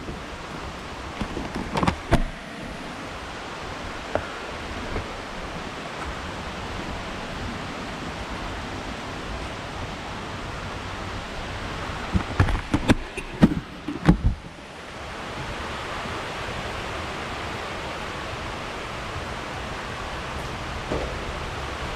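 Steady rushing wind and rain noise on the camera while riding a Suzuki V-Strom 800DE motorcycle on a wet road. There are a couple of sudden thumps about two seconds in and a cluster of them around twelve to fourteen seconds in.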